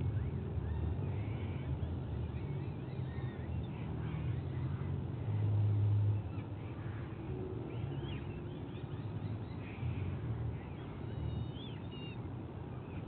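Faint, thin chirping bird calls over a steady low rumble that swells briefly about five seconds in.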